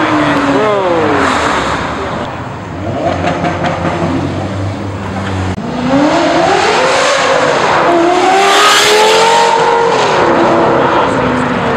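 Performance car engines revving and accelerating hard. The note falls in pitch early on; from about six seconds in an engine climbs sharply in pitch, holds high and loud, then eases back down near the end.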